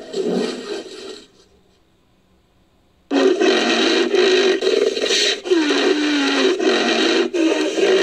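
Home-made monster call for an invented giant rhinoceros beetle, built from an edited woolly rhinoceros sound effect. A short call opens, then after about two seconds of near quiet a long, loud call with a sliding pitch starts, broken by brief gaps.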